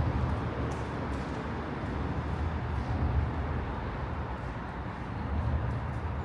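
Low outdoor rumble that swells and eases unevenly, with no clear single source.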